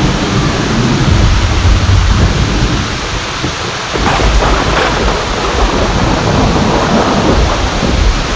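Steady heavy rain with low rolling thunder, the rumble swelling about a second in and again about four seconds in.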